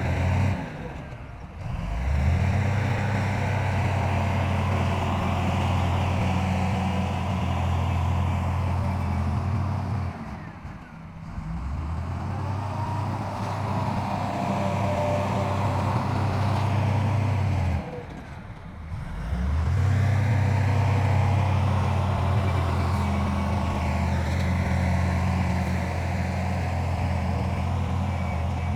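Heavy diesel engine of earthmoving machinery running steadily under load. It drops away briefly three times and picks up again each time.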